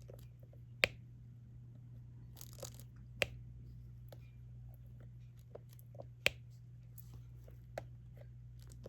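Sharp, isolated clicks of a diamond-painting drill pen setting single resin drills onto the sticky canvas, a few seconds apart with fainter taps between, over a steady low electrical hum.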